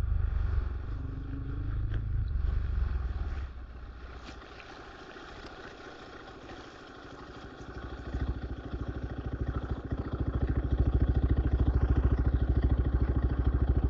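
RXB 250 XL dirt bike engine running: loud for the first few seconds, dropping to a low, quieter running about three seconds in, then picking up again and settling into loud, even firing pulses over the last few seconds.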